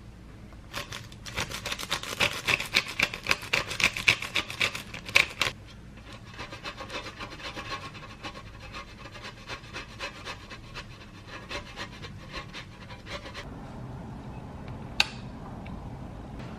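Quick, rhythmic rasping strokes, like something being scraped, grated or sawn back and forth. They are loud for the first few seconds, then go on more softly, and a single sharp click comes near the end.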